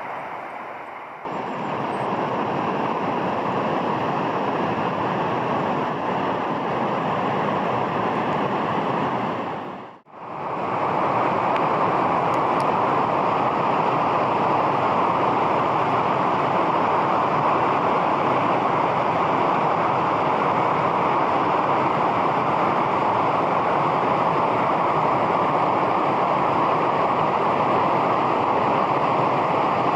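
Steady rushing of flowing river water, loud and even, breaking off briefly about ten seconds in.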